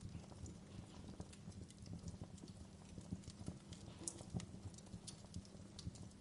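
Wood fire crackling: irregular sharp pops and snaps over a steady low rumble of the burning, with a couple of louder snaps about four seconds in.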